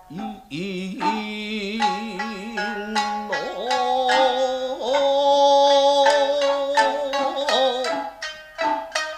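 Nagauta music: shamisen plucked notes under long held sung notes that waver with a wide vibrato, a lower one for the first three seconds and a higher one after it. Sharp plucked shamisen strikes return near the end.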